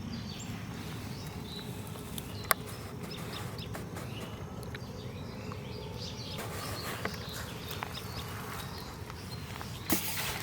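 Outdoor ambience of small birds chirping in short scattered calls, with insects buzzing, over a steady low rumble. A sharp click comes about two and a half seconds in, and a thump near the end.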